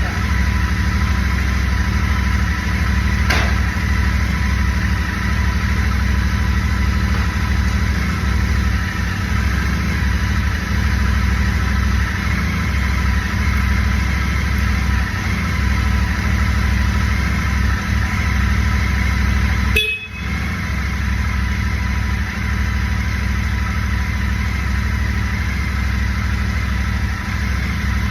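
Royal Enfield Super Meteor 650's parallel-twin engine idling steadily, with a thin steady high tone running alongside. The sound drops out briefly about 20 seconds in.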